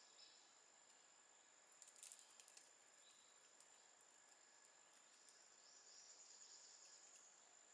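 Faint forest ambience: insects droning steadily on a high note, with a few sharp clicks about two seconds in and a run of repeated chirps in the second half.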